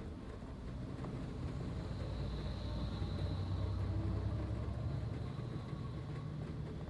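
Low vehicle rumble that swells to a peak around the middle and then fades.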